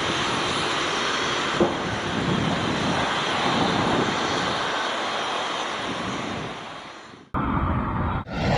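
Airbus A340 jet engine running with a steady, dense roar, fading away about seven seconds in. The sound then cuts to another aircraft engine's noise.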